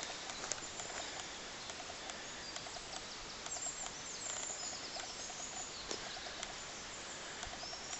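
Quiet woodland ambience: a steady hiss of background noise with faint, high-pitched bird chirps and scattered light clicks.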